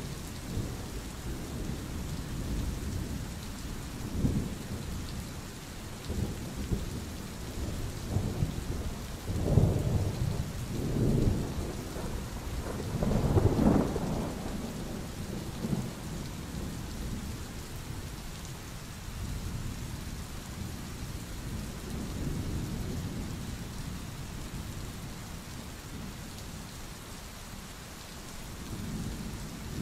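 Steady rain with rolling thunder: low rumbles swell and fade several times, the loudest about ten and fourteen seconds in.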